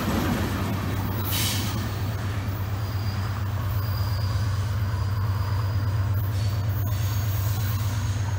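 A boxcar freight train's last cars roll past on the rails and draw away up the grade, with faint thin wheel squeals, over a steady low engine drone. The rolling noise is loudest at the start and eases off.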